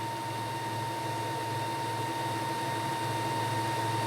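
Steady low hum with a faint, thin high tone running through it, unchanging throughout.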